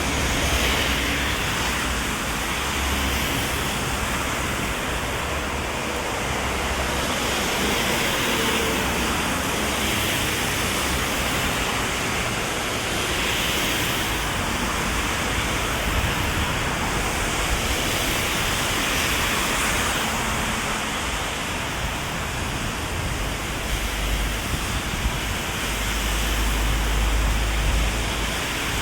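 Heavy rain falling steadily onto an umbrella overhead, an even hiss of downpour, with a low rumble swelling near the end.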